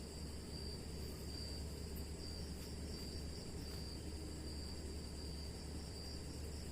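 Night insects, crickets or similar, trilling in repeated high-pitched bursts that start and stop every half second to second, over a steady low rumble.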